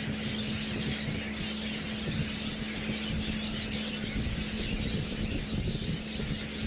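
Caged budgies chattering and chirping in a steady, dense twitter, over a constant low hum.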